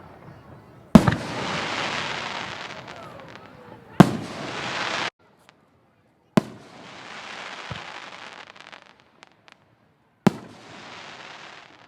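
Fireworks bursting overhead: four sharp bangs a few seconds apart, each followed by a second or two of crackling hiss.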